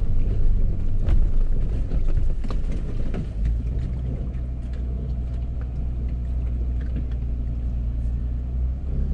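Four-wheel-drive engine running with a steady low rumble on a rough track, with scattered knocks and clicks in the first few seconds that settle into an even hum.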